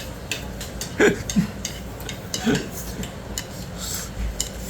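Eating utensils clicking and scraping against dishes during a meal, in many short irregular taps. A couple of brief vocal sounds come about a second in and again midway.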